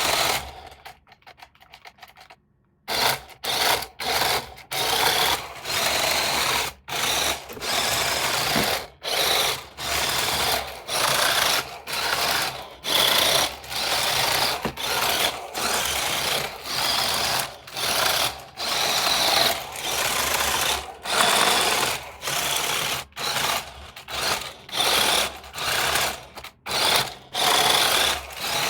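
Small electric motor and plastic gears of a remote-control toy car whirring in short repeated bursts, roughly one a second, as the throttle is pulsed. The bursts start about three seconds in, after a near-quiet gap.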